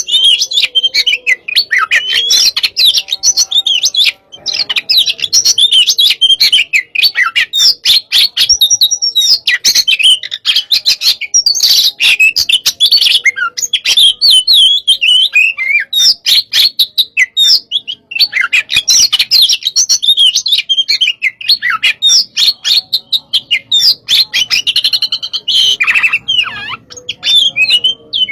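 Oriental magpie-robin (kacer) singing loudly and almost without a break: fast, varied phrases of chirps and trills in the aggressive style that bird keepers call 'panas' (hot), broken by a couple of short pauses.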